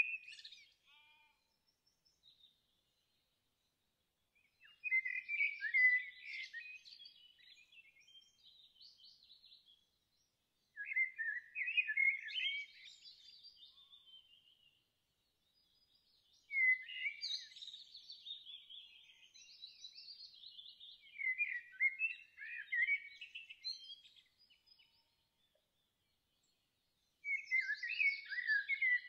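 A songbird singing in quick chirping, warbling phrases of two to four seconds, five of them, separated by silent gaps of a few seconds.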